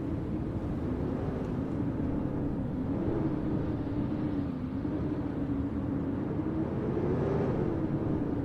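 Steady wind noise during a snowstorm, with a low howl that slowly wavers up and down in pitch.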